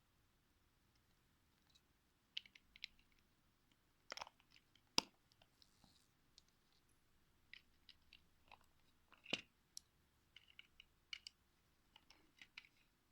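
Scattered light clicks and taps of plastic Lego parts being handled, at irregular moments, with two sharper knocks about five and nine seconds in.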